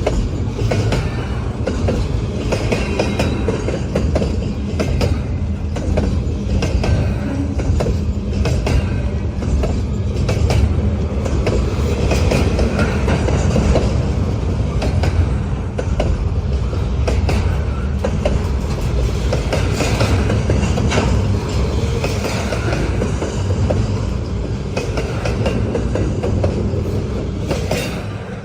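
Intermodal freight cars of a long freight train rolling past, wheels clicking over the rail joints over a steady rumble, fading near the end.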